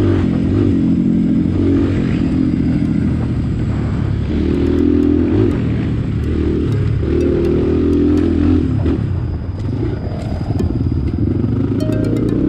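Dirt bike engine running loud and steady, its pitch swelling and easing as the throttle is worked, with a few sharp ticks near the end.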